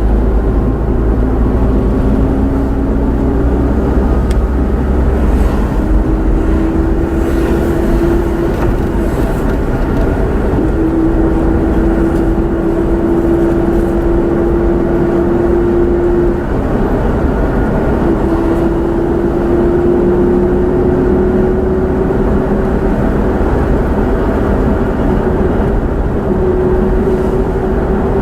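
Car engine and road rumble from a moving car, the engine note rising slowly and dropping back a few times.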